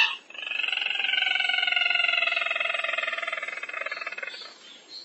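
Recorded lure call of the sintar merah bird: one long, rapid trill lasting about four seconds that slowly falls in pitch and fades near the end.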